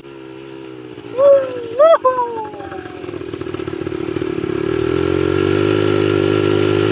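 ATV engine falls back to a low run, broken about a second in by a loud yell that rises and falls in pitch. From about three seconds the engine revs up and runs steadily louder, climbing.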